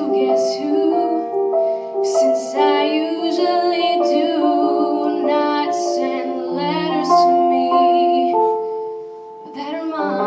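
A female solo vocalist sings a slow song to piano accompaniment. Near the end the voice pauses and the piano carries on.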